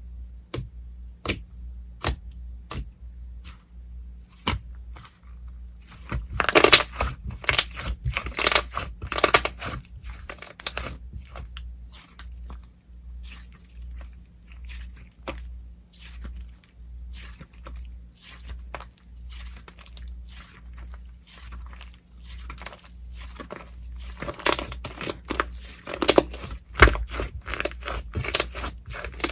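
Slime being squished and pressed by hand, giving many sharp crackling pops and clicks, with a busy, louder flurry a few seconds in and another near the end, over a steady low hum.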